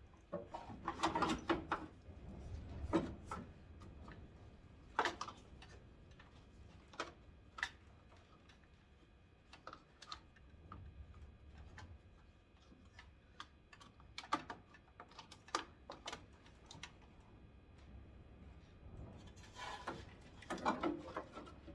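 Scattered clicks and light knocks of plastic parts being handled and twisted as a headlight bulb socket is worked out of a 1991 Ford Ranger's headlight assembly, coming in small clusters with pauses between.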